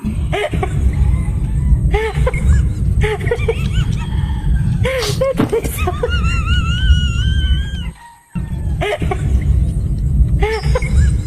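Bass-heavy background music with high, wavering voice-like sounds and squeals over it; it cuts out briefly about eight seconds in.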